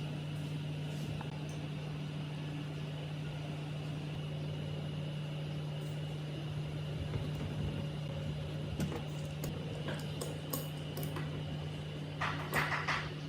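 Steady hum of a running machine holding one low pitch, with a few light clicks in the second half and a short burst of sharper metallic clicks near the end.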